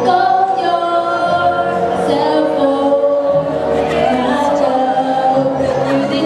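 A group of voices singing together in held, chord-like notes, choir style.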